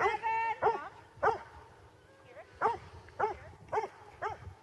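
A dog barking repeatedly: a drawn-out first bark, two quick barks after it, then after a short pause four more barks about half a second apart.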